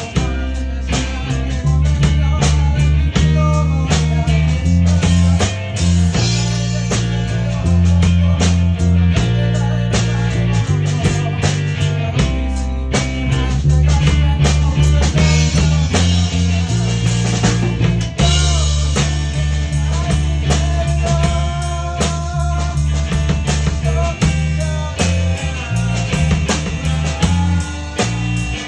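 Rock band playing an instrumental passage with no singing: drum kit, bass guitar and electric guitar.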